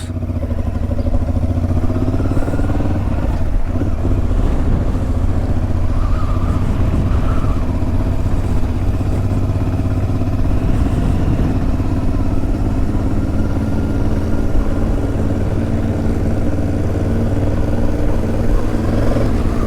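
Motorcycle engine running steadily while riding on the road, heard from the rider's camera, with a brief rise in engine pitch about two seconds in.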